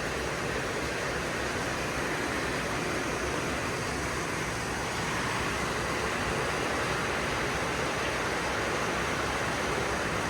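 Heavy rain pouring in a steady, even hiss that grows a little louder about halfway through.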